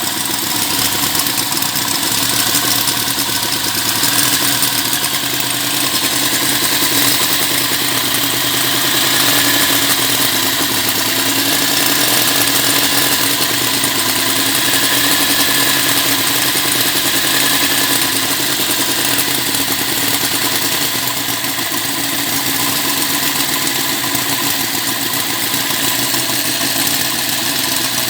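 Homemade inline four-cylinder model engine running steadily at a near-constant speed.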